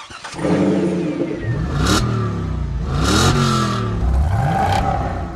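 6.6-liter Duramax V8 turbo diesel revving through a Flowmaster Force II exhaust with dual 4-inch tailpipes, the engine run up and let back down about three times.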